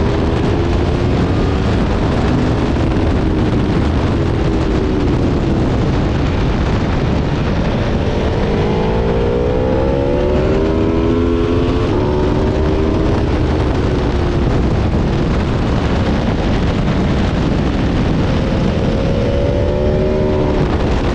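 Aprilia Tuono V4 motorcycle's V4 engine under hard acceleration on track, with heavy wind rush over the microphone. The engine note climbs through the revs, drops suddenly at an upshift about halfway through, then climbs again near the end.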